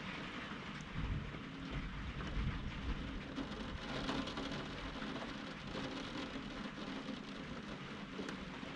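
Steady rain, with a low rumble of thunder that swells about a second in and fades after about three seconds.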